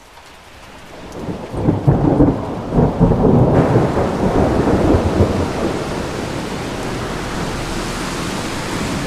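Thunder rumbling, swelling from faint to loud in the first two seconds, then giving way to the steady hiss of falling rain.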